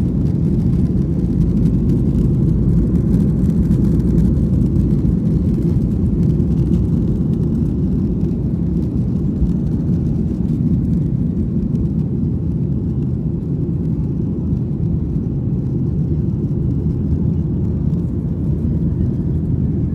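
Boeing 737-800's CFM56 jet engines running at climb power, a steady low rumble with no let-up; the higher hiss eases slightly partway through.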